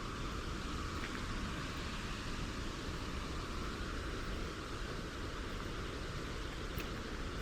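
Steady rushing noise of the Serpis River flowing.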